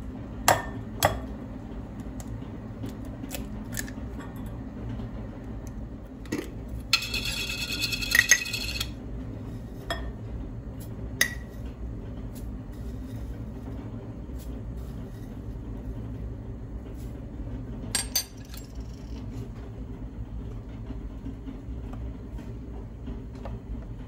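Crockery and cutlery clinking and knocking: scattered sharp clicks over a steady low hum, with one bright ringing sound lasting about two seconds about a third of the way in.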